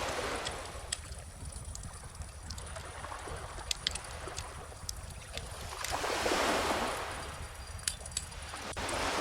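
Small ocean waves washing in about every three seconds, the biggest one about six to seven seconds in, over a wood bonfire's scattered sharp crackles and pops.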